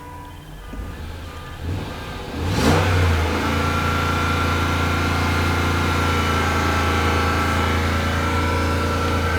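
Supercharged 4.2-litre V8 of a 2006 Range Rover Sport starting about two and a half seconds in, flaring briefly and then running steadily. A constant high whine sits over the engine note.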